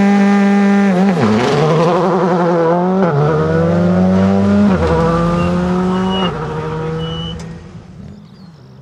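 Rally car engine at high revs, shifting up through the gears: the pitch drops sharply at each of about four shifts. The sound fades away near the end.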